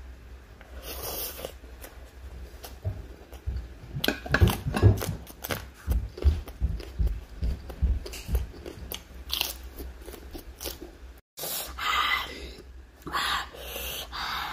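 Close-miked eating: crunchy bites and chewing of raw vegetables, a run of sharp crunches thickest in the middle, with a momentary cut-out near the end.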